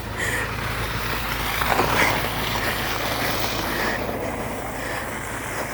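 A vehicle driving past on a snowy plowed street, its tyre and engine noise swelling to a peak about two seconds in and then easing off, with footsteps crunching through snow at a steady walking pace.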